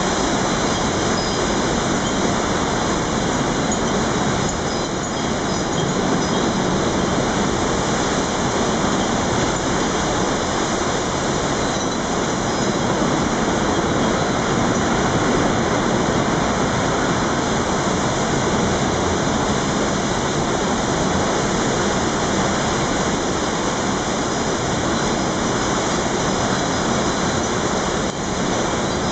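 Typhoon wind and rain making a loud, steady rushing noise.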